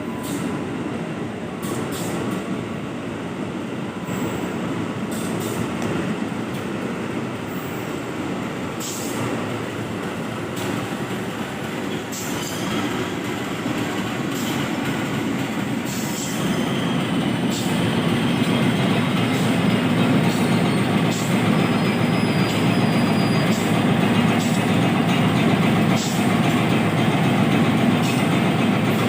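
Train running through a station, a steady rail rumble with repeated clicks of wheels over rail joints and a faint wheel squeal. It grows louder a little past halfway as the train comes closer.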